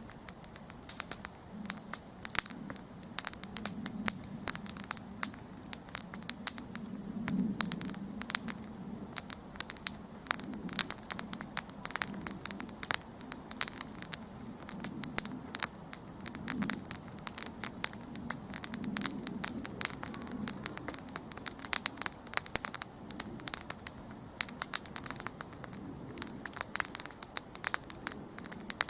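Wood campfire burning, with a dense, irregular crackle of sharp pops and snaps over a low, soft rumble of flames.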